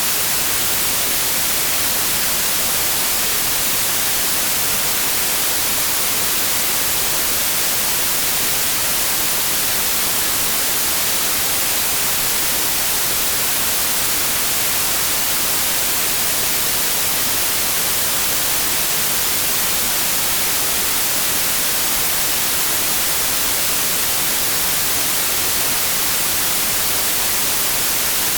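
Steady synthetic white noise: an even, unbroken hiss, bright and strongest in the treble, with no change in level.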